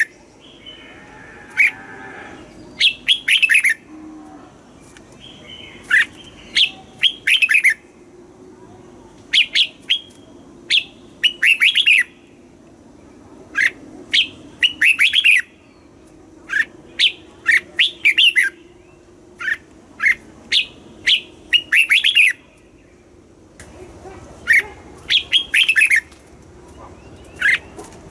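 Red-whiskered bulbul singing: short, quick phrases of sharp falling chirps, repeated every second or two, with a brief pause near the end.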